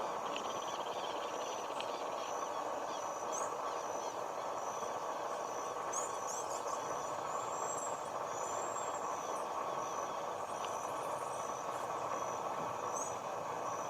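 Steady background rumble of road traffic with birds calling. A short, high, regular peep repeats nearly twice a second, and a few brief chirps and whistles come in around the middle.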